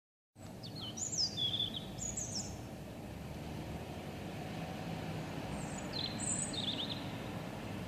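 A songbird singing two short phrases of high, thin, quickly changing notes, the first about a second in and the second about six seconds in, over a steady low background rumble.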